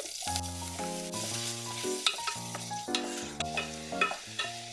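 Squid pieces sizzling as they fry in hot cooking oil in a stainless steel pot, with a few sharp knocks of a wooden spatula against the pot, over light background music.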